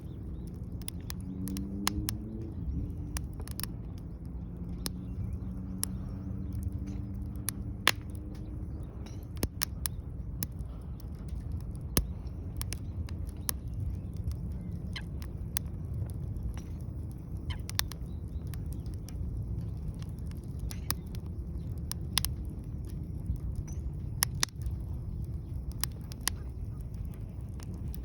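Wood fire crackling, with many sharp irregular pops over a low steady rumble.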